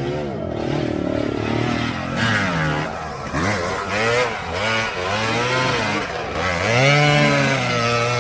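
An off-road vehicle's engine revved hard again and again, its pitch rising and falling in repeated surges. It is loudest near the end.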